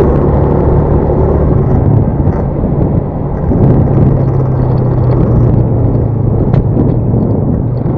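Motor vehicle on the move: a steady engine drone under road and wind noise.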